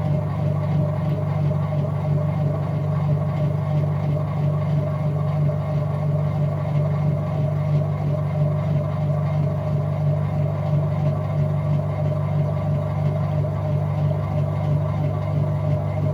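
Whirlpool top-load washing machine running steadily: a constant low motor hum with a fainter, higher steady tone above it.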